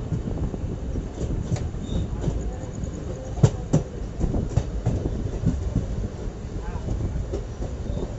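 Passenger train running on the rails: a steady low rumble of coach wheels on track, with two sharp clacks close together about three and a half seconds in, as wheels pass over a rail joint.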